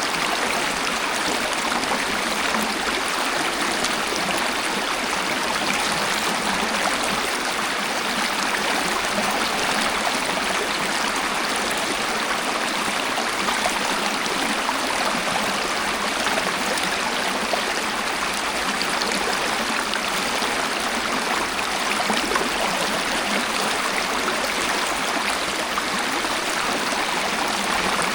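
Waterfall: a steady, unbroken rush of falling water with a fine splashing hiss and hardly any deep rumble.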